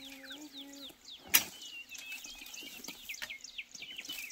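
Birds chirping throughout with many short, quick downward-sliding calls. One sharp crack, like a dry stick snapping, about a second and a half in is the loudest sound. A sung note from a background song is held and ends within the first second.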